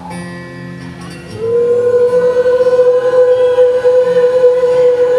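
Live rock concert music: after a quieter moment, a single sustained note swells in about a second and a half in and holds steady.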